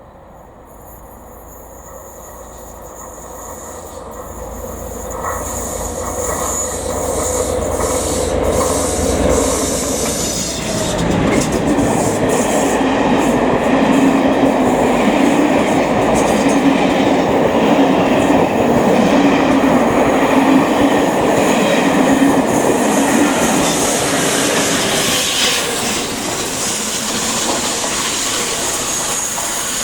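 Class 57 diesel locomotive hauling a passenger train past: a low rumble builds over the first ten seconds, then the coaches' wheels run loudly on the rails for about a quarter of a minute, with a thin high squeal, and the sound eases off near the end.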